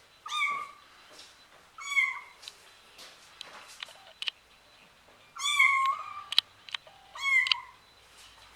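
Five-week-old kittens meowing: four high-pitched mews, each under a second long, with a few faint clicks between them.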